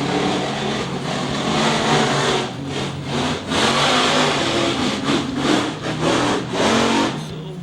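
Monster truck engines running hard at full throttle in a race, the noise surging and falling off a few times with the throttle.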